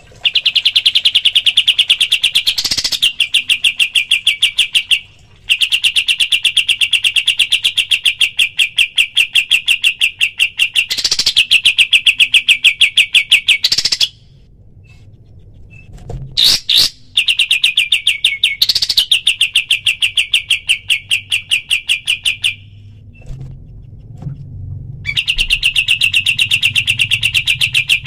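Kapas tembak songbird giving its rapid 'tembakan' rattling trill: long runs of fast, evenly spaced high notes, each run lasting several seconds, with short pauses between. A brief sharp call comes about halfway through.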